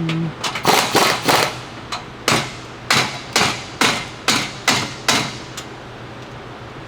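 Hammer blows: about a dozen sharp strikes at an uneven pace, each ringing briefly, stopping about five and a half seconds in.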